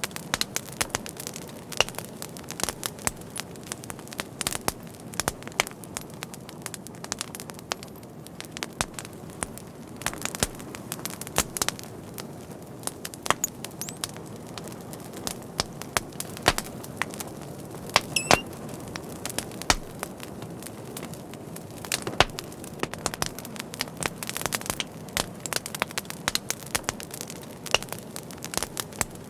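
Fire crackling steadily: a low rushing burn with dense, irregular sharp pops and snaps, and a brief high whistle a little past the middle.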